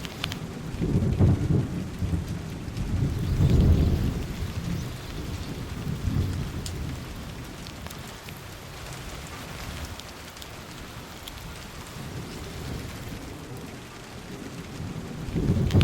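Monsoon rain falling steadily, with low rolling rumbles of thunder that swell about a second in, again around three and a half seconds in, and near the end.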